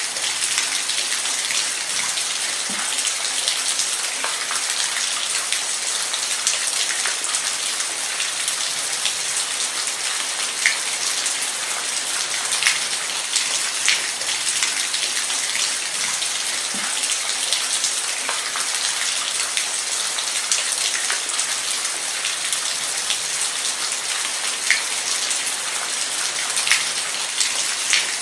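Steady rain falling, an even hiss with sharp ticks now and then from single drops striking close by.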